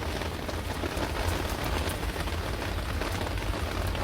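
Heavy rain pouring down, a dense steady hiss of drops hitting hard surfaces, with a steady low rumble underneath.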